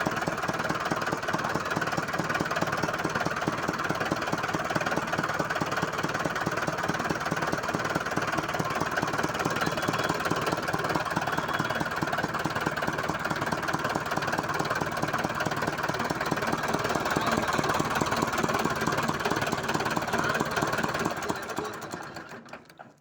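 Hindustan tractor's four-cylinder engine running steadily after a valve adjustment, with a fast even firing beat; near the end it winds down and stops.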